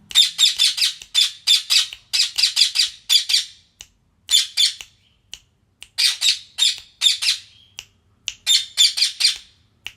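Pet green parrot squawking in quick runs of short, harsh calls, several calls to a run, with brief pauses between runs.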